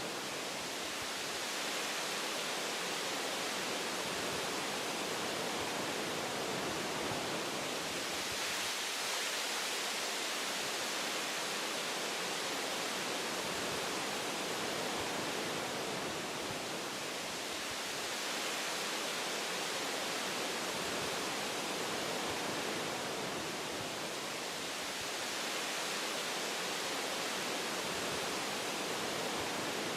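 Wind blowing through forest tree branches: a steady rushing hiss that rises and eases in slow waves every several seconds.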